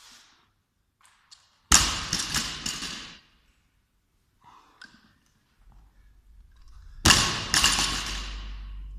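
Loaded barbell dropped onto the floor twice, about five seconds apart: each landing is a loud thud with the plates bouncing and rattling as it settles, the second one with a quick rebound hit just after.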